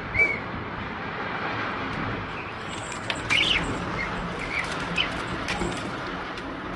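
Birds chirping in short, scattered calls over a steady rushing noise.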